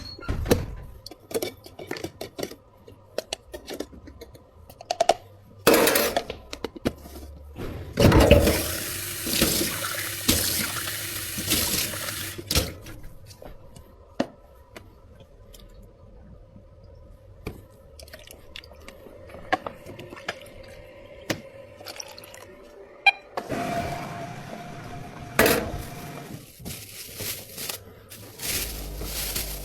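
Water running hard from a tap twice, first for about four seconds and later for about two, among scattered clicks and knocks of cups and utensils.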